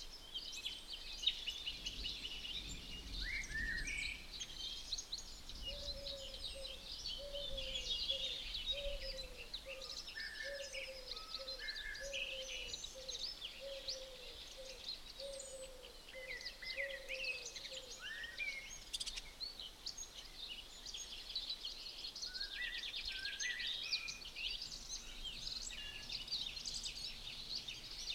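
Several songbirds singing, with dense chirps and trills overlapping. In the middle, a lower bird call of short falling notes repeats about once a second for some twelve seconds.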